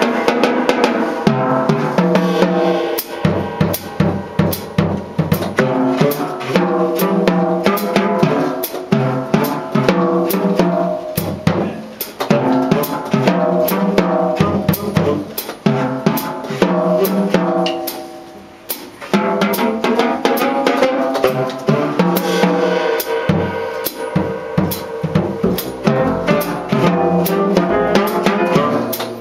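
Jazz drum kit played busily, with dense snare and cymbal strokes over the pitched notes of the rest of the quartet. The band briefly drops down about two-thirds of the way through, then picks back up.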